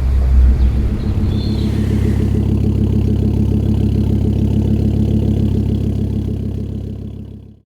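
A car engine running steadily, fading out near the end.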